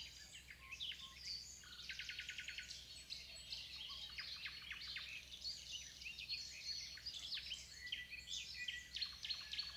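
Several small birds chirping and trilling at once, their calls overlapping, with a rapid run of evenly spaced notes about two seconds in, over a faint steady low hum.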